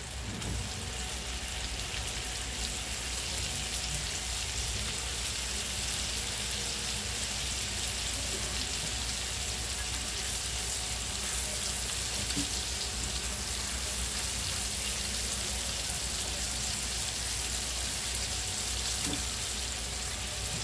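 Chicken seekh kebabs shallow-frying in butter in a frying pan, the butter sizzling steadily.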